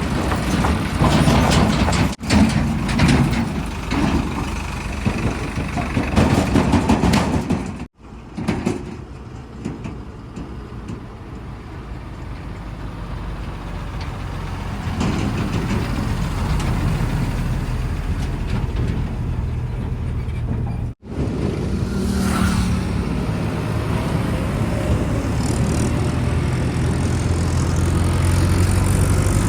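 Heavy diesel vehicle engines running, cut off abruptly about 2, 8 and 21 seconds in. Near the end one engine grows steadily louder.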